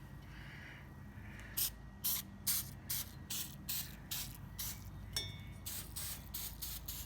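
Spray bottle of citrus-based cleaner being squirted over and over, a quick run of short hissing sprays about three a second, starting about a second and a half in.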